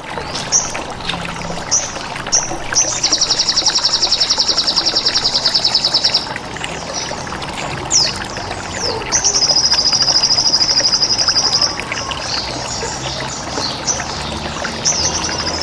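Songbird training track: short, high, falling chirps and two long, rapid buzzing trills of about three seconds each, the bren and ciblek fill-ins of a sogon masteran. Underneath runs a steady trickle of running water.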